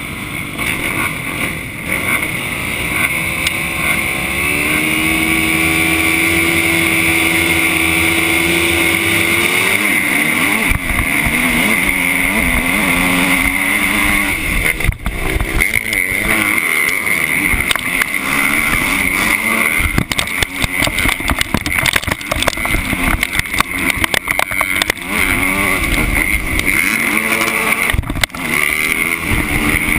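Motocross bike engine heard from an on-board camera: held at a steady high rev for several seconds, then revving up and down rapidly with many short knocks.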